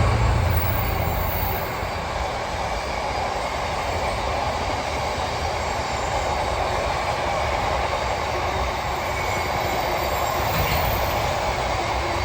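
A train of freight wagons rolling past behind a Class 66 diesel: a steady rumble of steel wheels on rail, with faint wheel squeal now and then.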